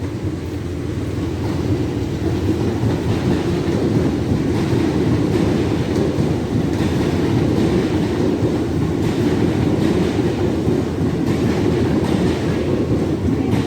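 Class 802 bi-mode multiple unit running along the platform, a steady low running noise that builds over the first couple of seconds and then holds, with a few faint wheel clicks.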